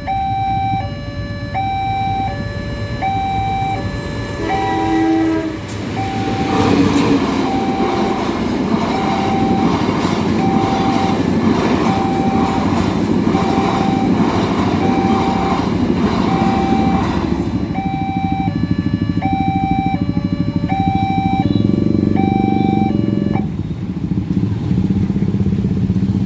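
Railway level-crossing alarm sounding its alternating two-tone electronic chime, with a short train horn blast about five seconds in. A diesel-hauled passenger train then passes for about twelve seconds, its wheels clattering rhythmically over the rail joints. The alarm keeps going after the train has gone and stops near the end.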